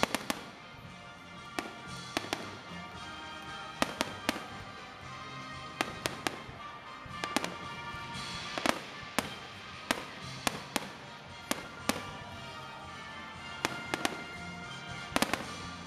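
Fireworks display: aerial shells burst in an irregular series of many sharp bangs, sometimes several in quick succession, with music playing throughout.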